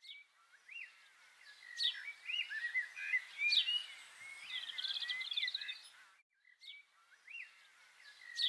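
Songbirds singing: a string of short whistled chirps gliding up and down, with a fast trill in the middle. The song breaks off briefly about six seconds in, then starts again.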